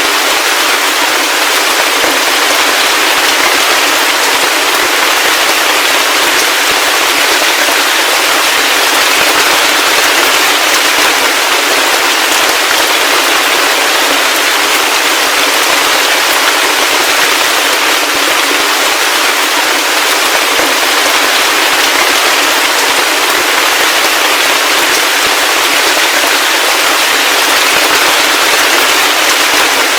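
Heavy rain falling steadily, a dense, even patter of drops with no low rumble and no thunder.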